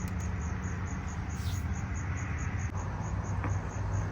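A cricket chirping, high short pulses repeating evenly about five times a second, over a steady low hum.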